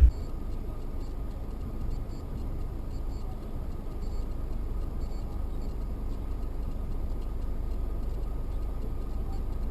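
Steady low rumble of a car driving, heard from inside the cabin, with faint regular ticking about twice a second.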